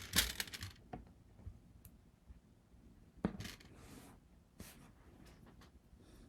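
Small handling noises on a work surface: a burst of rubbing and rustling at the start, then scattered light taps and clicks, the loudest about three seconds in.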